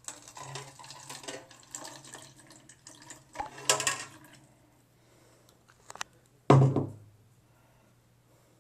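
Water pouring from a teapot into a cup for about four and a half seconds, then a click and a louder thump about six and a half seconds in.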